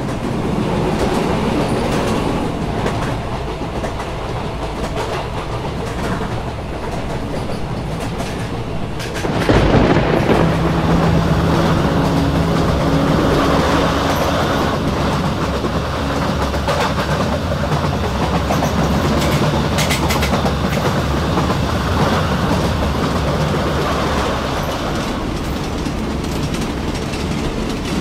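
Railway sound effect of a train rolling along the track, the wheels clattering over the rails with a low rumble. It turns suddenly louder about nine and a half seconds in.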